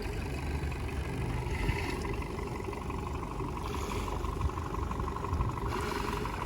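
A motorboat engine running steadily, a low rumble with a steady finely pulsing whine.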